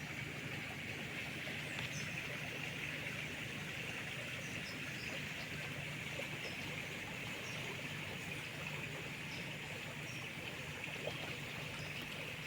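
Steady rush of river water, with a low even hum underneath and faint short high chirps scattered through it.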